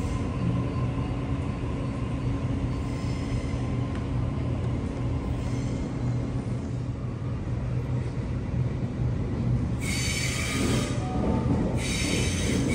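Double-deck electric suburban train at a platform with a steady low electric hum, then moving along the platform; about ten seconds in its wheels squeal, a high shrill squeal coming twice over a rising rumble.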